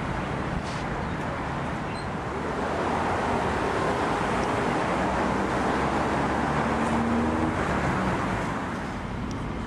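Road traffic passing on a busy street: a steady rush of car tyres and engines that swells a few seconds in and eases near the end.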